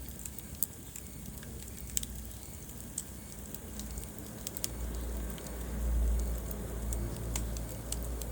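Wood fire burning in a fireplace, crackling with scattered sharp pops over a steady low rush of flame. The low rush grows louder about six seconds in.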